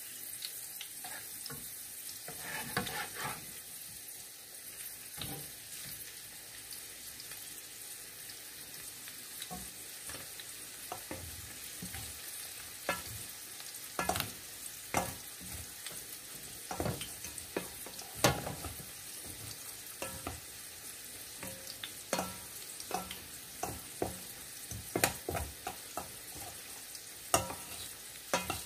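Okoy fritters of bean sprouts and vegetables frying in oil in a pan, a steady sizzle. Over it come frequent sharp, irregular clicks and scrapes of utensils in a stainless steel mixing bowl as the batter is stirred and scooped, busier in the second half.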